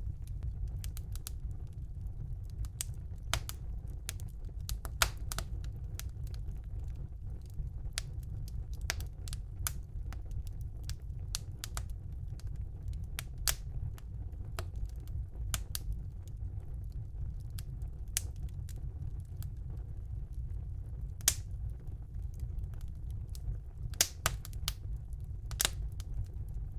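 Wood fire burning in a fireplace: a steady low rumble from the flames with irregular sharp crackles and pops, a few louder pops scattered through and clustered near the end.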